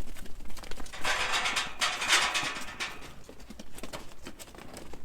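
Sheep moving about, their hooves pattering on the ground, with a louder rustling stretch lasting about two seconds from a second in.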